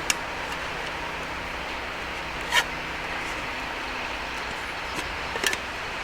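Steady wash of sea surf and wind, with a few sharp pops and ticks: one a little over two seconds in and a short cluster near the end.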